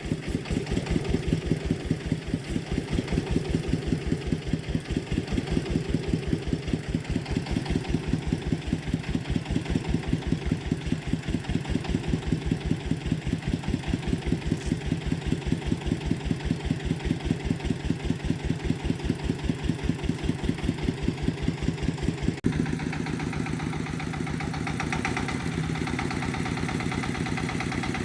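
A farm vehicle's engine running at a slow, even idle, pulsing about five times a second. About 22 seconds in the sound changes abruptly to a quieter, smoother, faster run.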